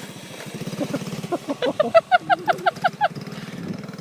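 A horse whinnying: a run of about ten quick, shaky pulses lasting nearly two seconds, starting about a second in. A small motorcycle engine runs faintly underneath.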